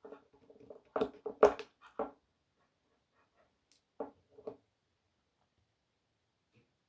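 Parts being handled on a workbench: a quick run of sharp knocks and clicks about a second in, then two more a couple of seconds later, each with a short hollow ring.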